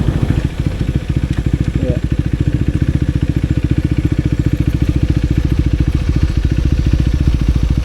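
Motorcycle engine running at low, steady revs near idle: an even, rapid pulsing that holds steady.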